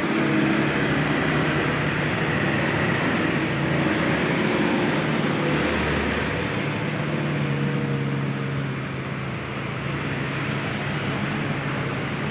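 Old truck's engine running steadily, its low tone shifting slightly about halfway through.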